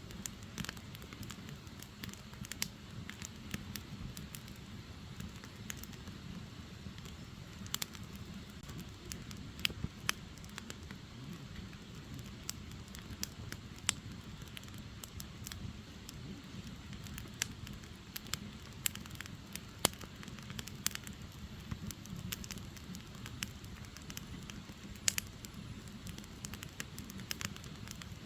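Firewood logs burning, with irregular sharp crackles and pops over a steady low rush of the fire.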